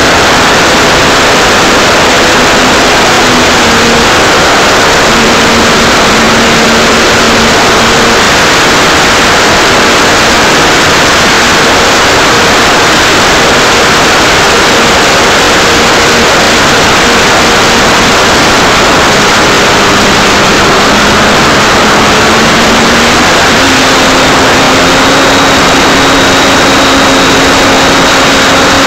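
Electric motor and propeller of an Art-Tech Cessna 182 RC model plane in flight, heard from a keychain camera on its nose, under loud rushing wind. The propeller's hum steps up and down in pitch several times as the throttle changes.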